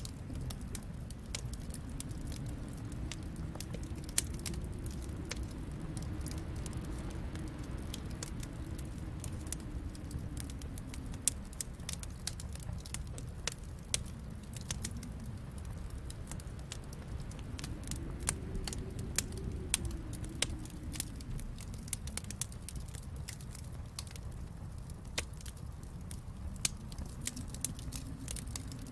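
Wood fire in a fireplace crackling, with frequent sharp pops over a low rumble that slowly swells and fades.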